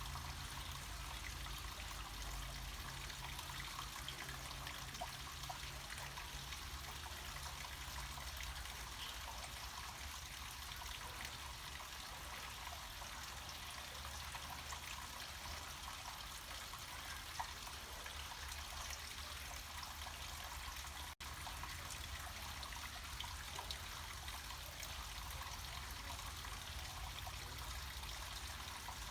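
Small mountain stream or cascade of water running downhill: a steady, even rush and trickle of water with no let-up, apart from a split-second dropout about two-thirds of the way through.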